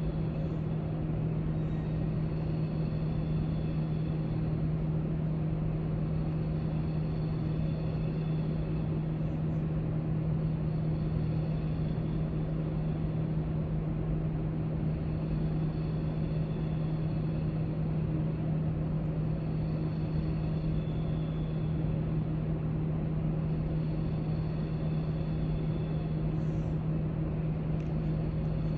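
Library room tone: a steady low hum over a rumble, with a few faint high clicks now and then.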